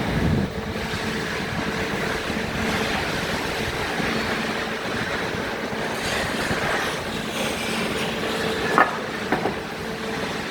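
Steady mechanical running noise with a constant hum, and two sharp clicks close together near the end.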